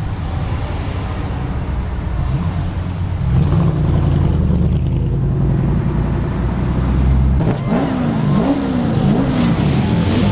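Car engine running with a deep idle rumble and brief revs. Near the end the revs rise and fall several times in quick succession.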